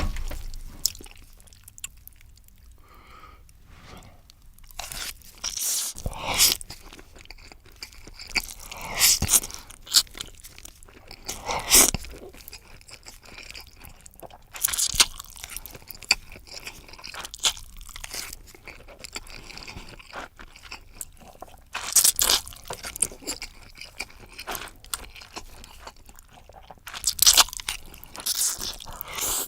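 Close-miked eating sounds of a person chewing a mouthful of ramen, broken by short, loud wet bursts every few seconds.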